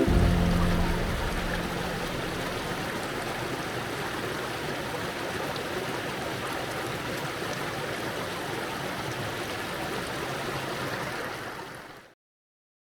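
Rushing mountain creek water, a steady flowing hiss, with a low rumble in the first second or so; it fades out about twelve seconds in.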